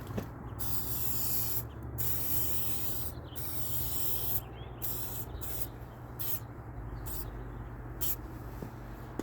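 Aerosol headlight coating from a Meguiar's two-step restoration kit being sprayed onto a headlight lens in a series of hissing bursts, each about a second long early on and shorter near the end. This is the last coat of protective coating.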